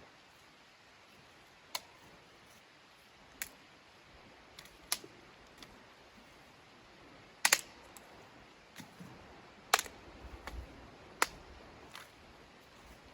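Sharp, irregular cracks and pops, about eight spread over ten seconds, the loudest a double pop about seven and a half seconds in.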